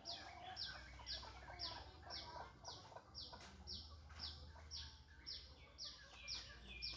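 Birds chirping: a high chirp repeated evenly about twice a second, with fainter, irregular calls lower down.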